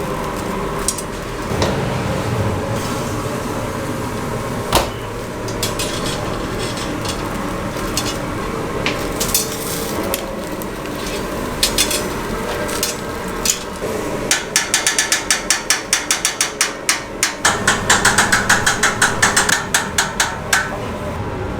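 Scattered knocks and clatter, then a run of rapid, evenly spaced chopping strokes on a cutting board, about five a second, starting about two-thirds of the way in and stopping shortly before the end.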